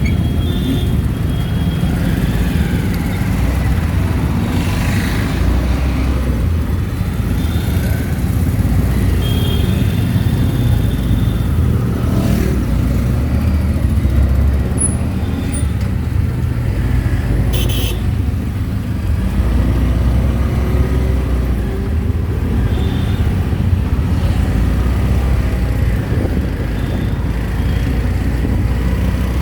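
Auto-rickshaw engine running steadily as it rides through busy street traffic, with short horn toots from surrounding vehicles a few times.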